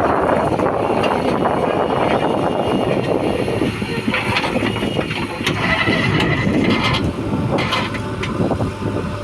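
The diesel engine of a JCB 3DX backhoe loader running loud and steady as it works loading mud. A few short knocks and a brief squeal come in the second half.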